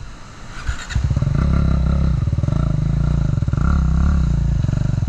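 Off-road motorcycle's single-cylinder engine revving hard, coming in about a second in. The revs rise and fall several times, then drop away sharply at the very end.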